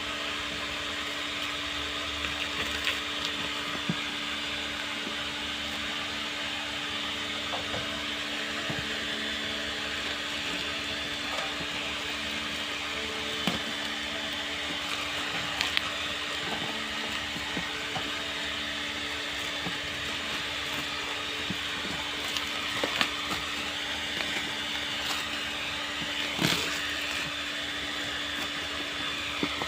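Cardboard box and packing being handled and opened: scattered clicks, knocks and rustles over a steady mechanical hum.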